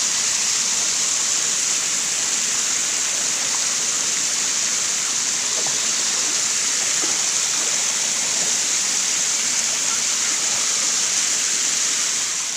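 Steady rush of flowing water, an even hiss strongest in the high range.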